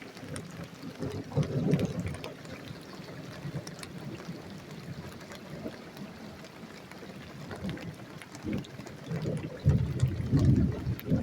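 Heavy rain pouring down in a thunderstorm, with two low rumbles of thunder, about a second and a half in and again near the end.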